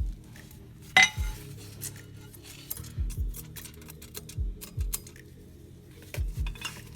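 Small metal parts clinking and tapping against each other, with one sharp metallic clink about a second in, over background music with a thudding beat.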